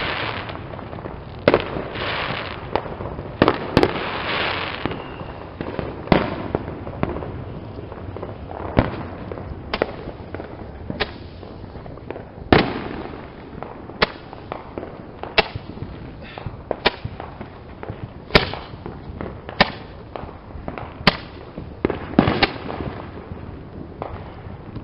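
Roman candle firing, a sharp pop about every second and a half. Denser crackling and fizzing fill the first few seconds.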